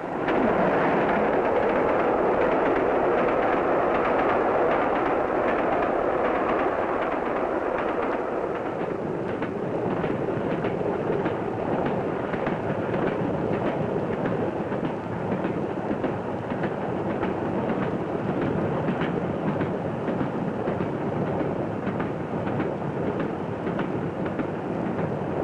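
A train running at speed on the rails: a steady rumble and rush of wheels on track, which comes in suddenly at the start. Faint clicks of the wheels over rail joints come through from partway in.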